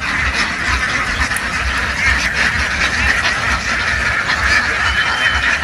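A large flock of domestic ducks quacking all at once, a dense continuous din of overlapping calls.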